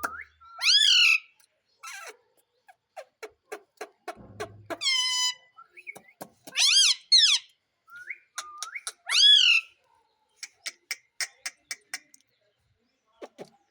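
Indian ringneck parrot giving several loud whistled calls that swoop up and down in pitch, with runs of short sharp clicks between them, a quick series of clicks near the end.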